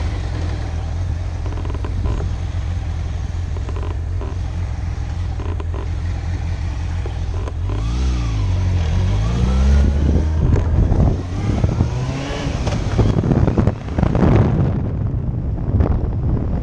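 Motorcycle engine running steadily, its revs falling and then rising again about eight seconds in, with rushing wind on the microphone growing in the second half.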